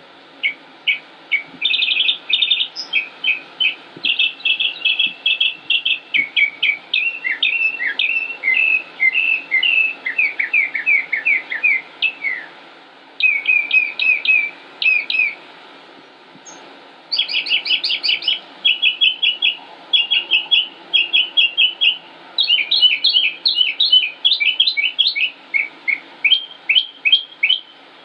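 A songbird singing a long, varied song of rapid short chirping notes in quick phrases, broken by two short pauses.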